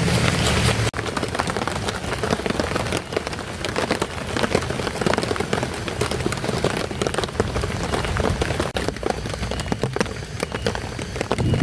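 Heavy rain falling steadily, a dense wash of drops striking a surface, with a sudden brief dip and a slightly quieter sound from about a second in.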